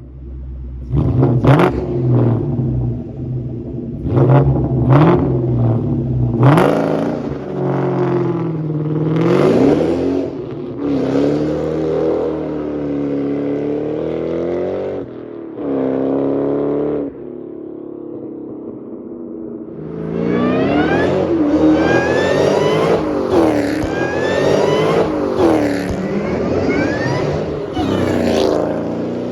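2003 Ford Mustang SVT Cobra's supercharged 4.6-litre V8 on a Borla exhaust making hard pulls. First several quick sharp revs, then long runs where the engine note climbs and drops at each gear change. After a short lull at steady engine speed, a final pull brings a supercharger whine that rises with the revs.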